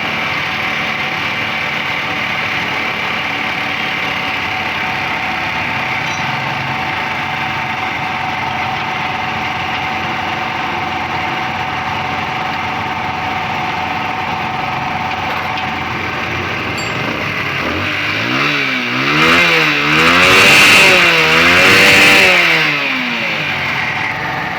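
Motorcycle engine idling steadily, then revved up and down about three times near the end before settling back to idle.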